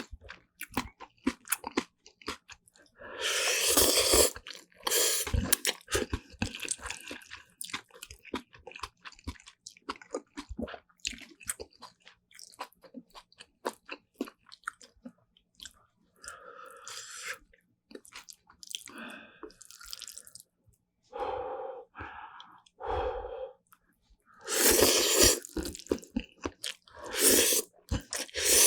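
Close-miked chewing of black bean noodles with kimchi and vegetable side dishes: many small wet mouth clicks, broken by several louder, longer bursts of crunching.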